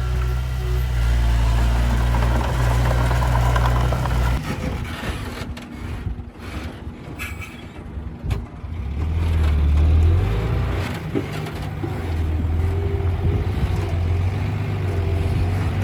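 Diesel engine of heavy earthmoving machinery running. A steady low hum changes suddenly about four seconds in to a quieter stretch with a few knocks, and the engine is louder again from about halfway, with a wavering whine over it near the end.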